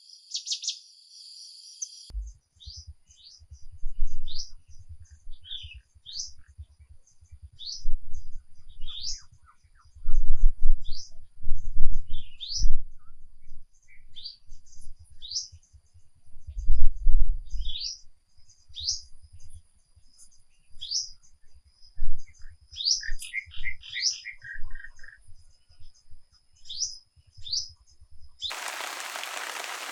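Small songbirds chirping repeatedly in short, quick notes, over low rumbling thumps. Near the end it cuts suddenly to a steady hiss of rain.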